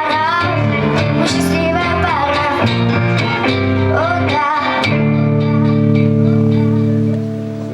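A young female voice singing the last chorus line of a pop song over strummed guitar. About five seconds in, it settles on a long held final note and chord, which starts to fade near the end.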